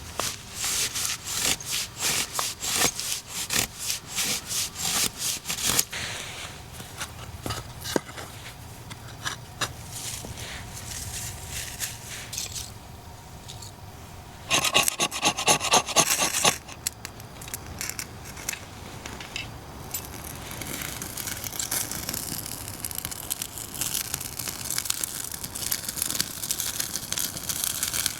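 Rhythmic scraping or rubbing strokes, about three a second, that stop about six seconds in. A second, louder run of fast strokes comes near the middle, and a steady hiss builds up over the last third.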